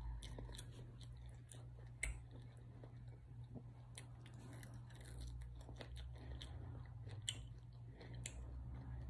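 Close-up chewing and biting of someone eating lemon pepper chicken wings, with scattered small crisp clicks and crunches over a low steady hum.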